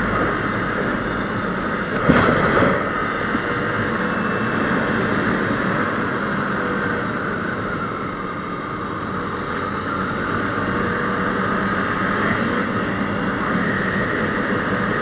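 Motorcycle running on the road with steady engine and wind noise, and a brief louder burst about two seconds in.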